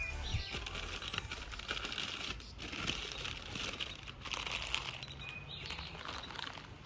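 Flower wrapping crinkling and rustling in irregular spells as a bouquet is handled and arranged.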